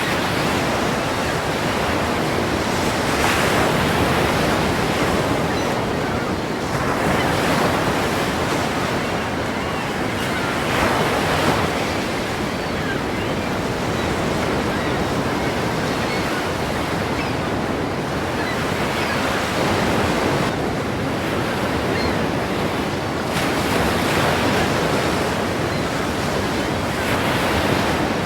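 Ocean waves crashing against a pier: a continuous loud wash of surf that swells every few seconds as each wave breaks.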